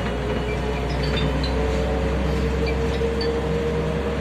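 MAZ-105 articulated bus heard from inside while under way: a steady engine and road drone with a low hum and a held whine that steps up slightly in pitch about a second and a half in. Faint light clinks of rattling fittings come through.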